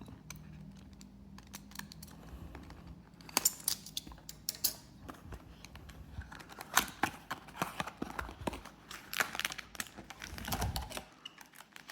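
A trading-card booster box being opened by hand: an irregular scatter of sharp clicks, taps and crackles from its packaging being handled.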